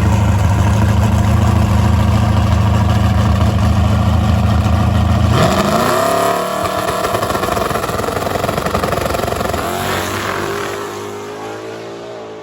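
Big-block twin-turbo Chevrolet S10 drag truck engine running loud and steady, then about five seconds in revving hard with a fast rising pitch as it accelerates. Its sound falls away near the end.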